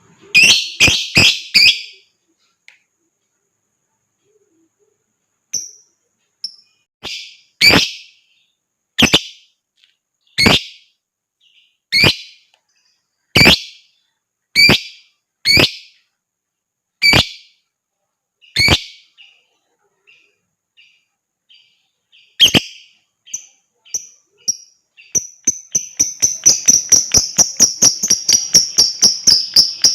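Lovebird calling with sharp, shrill, loud calls: a quick burst of four at the start, then single calls about every second and a half. Near the end they run together into a fast chatter of about four calls a second, the long trilling 'ngekek' that keepers use to set other lovebirds off.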